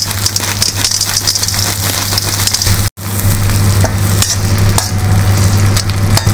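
Frozen peas sizzling in hot oil in an iron kadhai, stirred with a perforated steel skimmer that clicks and scrapes against the pan. The sound cuts out for an instant about halfway through.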